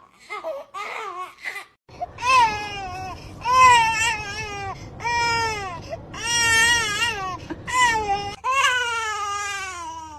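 A pet's crying calls: short whimpering cries at first, then about five long, loud wailing cries, each about a second long and sliding down in pitch at the end.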